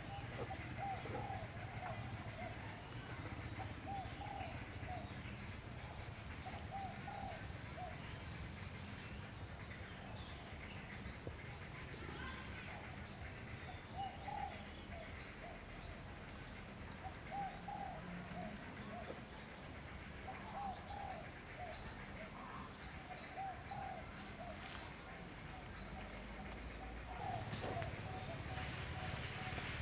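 A bird gives short call notes, repeated in small groups every second or two, over a steady high-pitched insect trill.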